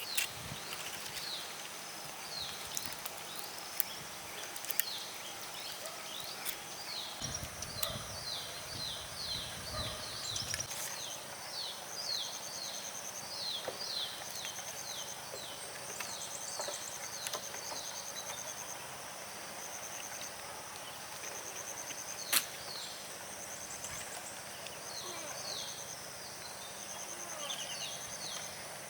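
Outdoor rural ambience: a bird repeating short downward-sweeping chirps, one or two a second, over a steady high insect buzz, with one sharp click about two-thirds of the way through.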